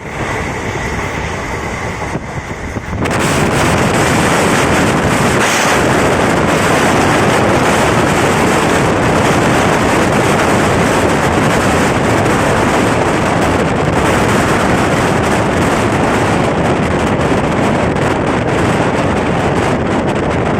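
Express passenger train running through the station at full speed, heard as a loud, steady rush of wheels and air that jumps up suddenly about three seconds in. Wind buffets the microphone throughout.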